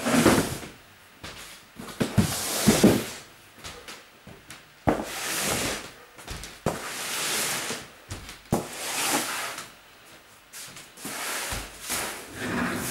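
Belongings being handled and moved about: an irregular run of rustling, scraping sounds with several sharp knocks in between.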